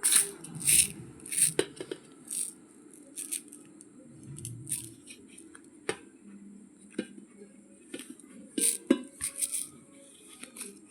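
Raw Charminar Select basmati rice grains crackling and clicking in irregular crisp bursts, with a few sharper clicks among them.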